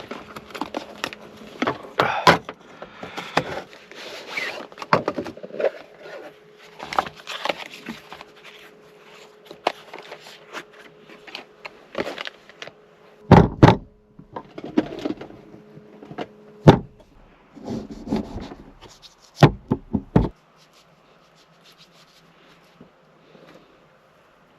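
Rustling and handling of things by hand, with many clicks and knocks and several hard thumps, the loudest about 13, 17 and 19–20 seconds in; then it goes quiet apart from a faint steady hum.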